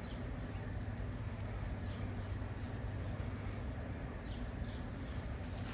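Backyard ambience: a steady low hum with a few faint, short bird chirps.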